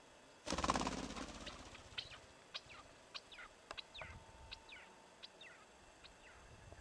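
A small bird's wings flapping in a fast flutter as it is let go from a hand and flies off, followed by a run of short chirps that fall in pitch, about two a second.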